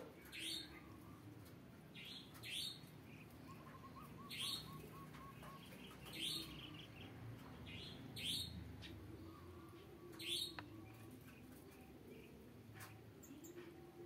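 Small aviary birds chirping: short high calls, mostly in pairs, repeating about every two seconds over a faint steady hum.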